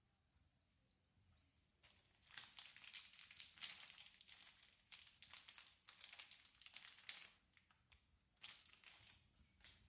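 Faint, irregular rustling and crinkling that starts about two seconds in and comes in uneven bursts.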